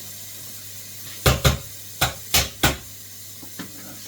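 Kitchen utensil knocking against a dish, five sharp knocks in quick succession over about a second and a half, then a faint click.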